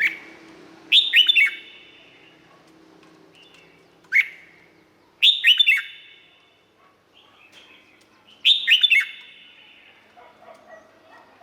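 Red-whiskered bulbul singing. Short phrases of three or four quick whistled notes, each dropping in pitch, come about every three to four seconds, with single notes between them.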